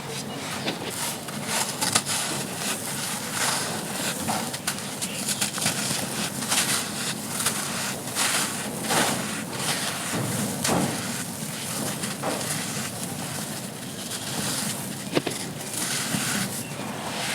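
Dry, grainy bucket-moulded charcoal shapes being crumbled, a dense, irregular crunching and crackling with many sharp little clicks.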